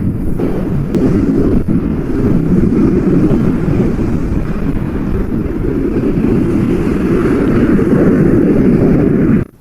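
Strong blizzard wind blowing, a loud steady rush that cuts off suddenly near the end.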